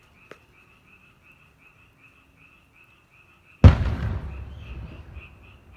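Frogs croaking in a steady chorus, about four calls a second. About two-thirds of the way in, a single loud firework burst booms and its rumble fades away over a second and a half, after which the frogs carry on.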